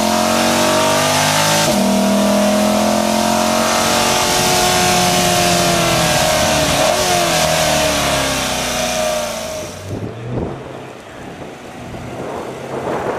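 C8 Corvette Stingray's 6.2-litre V8, picked up by a mic fitted to the car, pulling hard at speed with a quick upshift about two seconds in, then revs easing off. About ten seconds in it gives way to a much quieter, low engine rumble.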